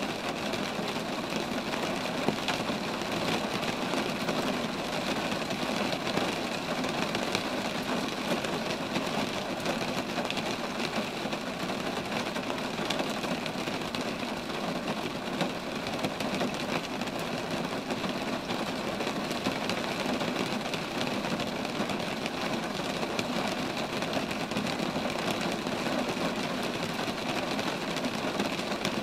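Steady rain falling on roadside trees: a dense, even patter of drops that holds level throughout.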